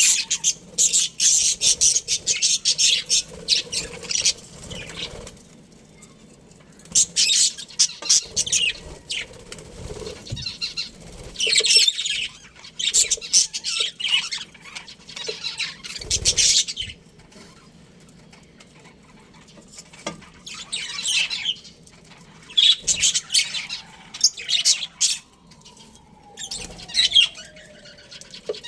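Budgerigars chirping and chattering in busy high-pitched bouts a few seconds long, with short lulls between them.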